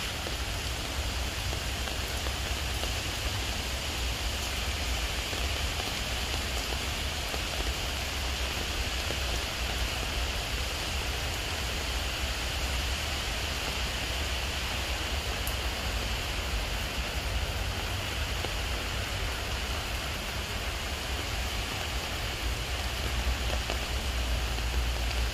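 Steady rain falling on wet pavement and foliage, an even hiss without a break, with a low rumble underneath.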